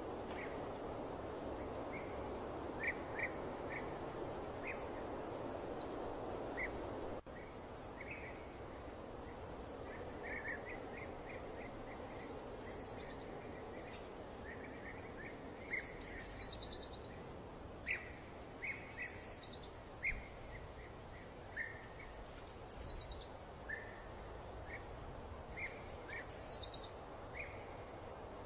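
Birds singing: scattered short chirps, and from about twelve seconds in a high, falling song phrase repeated every three to four seconds. A soft steady hiss lies under the first seven seconds and stops at an abrupt cut.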